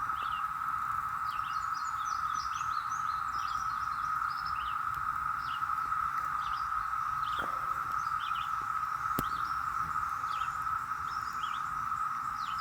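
Massed cicadas singing in the trees: a steady, unbroken chorus drone at one pitch. Birds chirp over it here and there, and there is one sharp click about nine seconds in.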